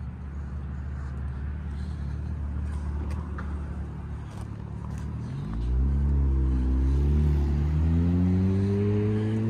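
Street traffic: a vehicle's engine runs with a steady low hum, then about halfway through a vehicle pulls away and accelerates past, its engine note louder and climbing steadily in pitch.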